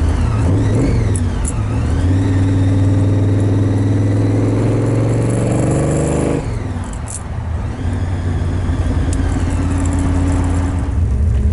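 Supercharged V8 of an XB Ford Falcon Interceptor replica accelerating, its pitch climbing steadily with the blower whining on top. About six seconds in the revs drop sharply, then the engine runs on steadily.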